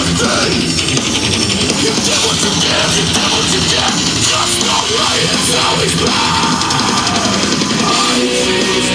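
Heavy rock music with drums and guitar playing loud and steady through a motorcycle's custom stereo: Polk Audio 6.5-inch and 4-inch speakers and a Hogtunes tweeter bar driven by a Rockford Fosgate amp.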